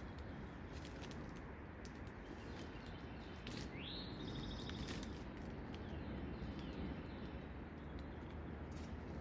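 Wild birds chirping faintly over steady outdoor background noise, with one clearer call about four seconds in that rises and then levels off into a short buzzy trill.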